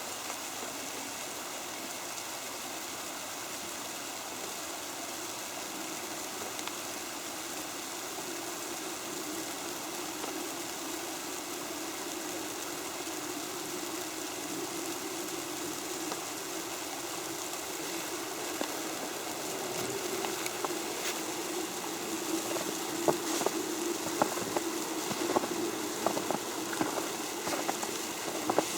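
Creek water flowing with a steady rush. In the last several seconds, scattered light ticks join it, typical of snow landing on an umbrella.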